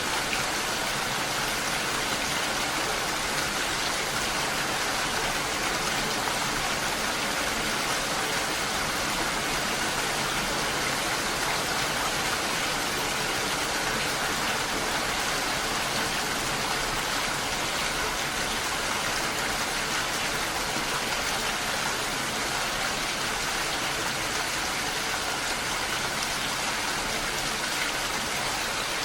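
Steady rain falling: an even, dense hiss of drops with no breaks or lulls.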